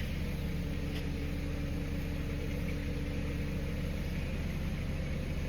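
A motor running with a steady low hum and a few held tones, unchanging throughout.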